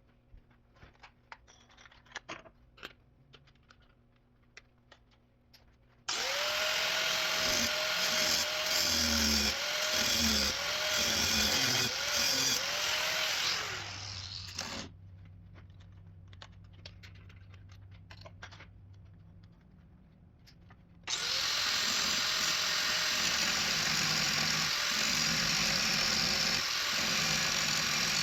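A handheld power tool cuts into the steel door hinge in two long runs, its motor pitch dipping again and again as it bites under load. Before the first run there are light handling clicks, and between the runs a low steady hum.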